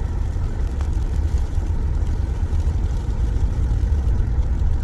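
Steady low rumble of a car engine and tires driving slowly over a snow-covered road, with the tires slipping on packed snow and black ice. A faint click about a second in.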